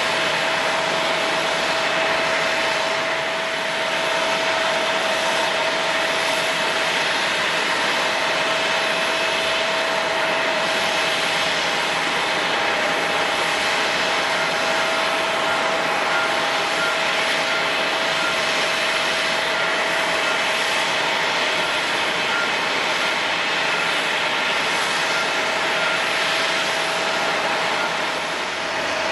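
Jet airliner engines running steadily: an even, loud rush of jet noise with a constant whine held throughout.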